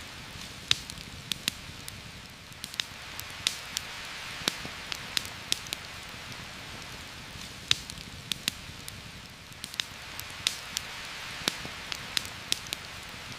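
Steady rain hiss with a campfire crackling over it: irregular sharp pops, about two a second.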